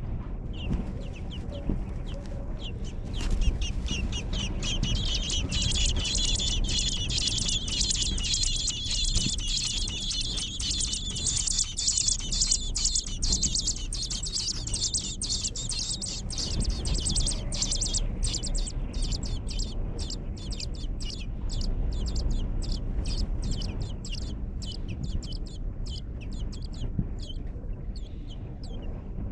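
Baby birds in a nest begging for food with rapid, high, shrill chirps. The chirping swells into a dense chorus a few seconds in, then thins to separate chirps over the second half.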